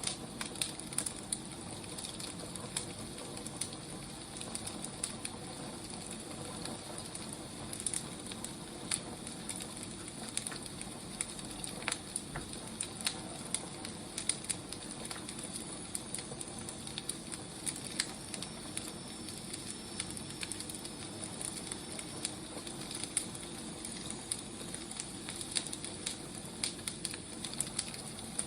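Wood fire crackling: a steady low hiss with irregular sharp pops and snaps, several a second.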